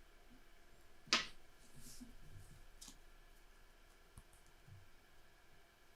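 Playing cards being handled on a tabletop: one sharp tap of a card set down about a second in, then a soft brushing slide and a few faint ticks.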